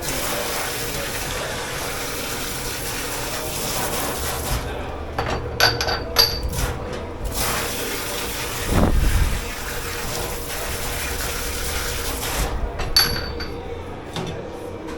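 Water running steadily in a dish-pit sink. A few light dish clinks come about five to seven seconds in, and a dull knock about nine seconds in.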